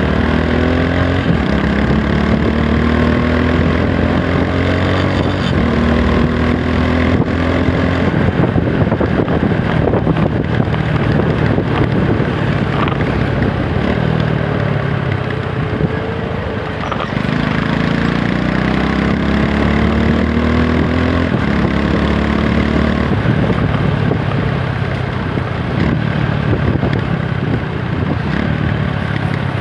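TVS Apache 160 4V's single-cylinder engine under way, revs climbing and dropping back several times as it pulls up through the gears. It slows down about halfway through, then builds up again, over a steady rush of road and wind noise.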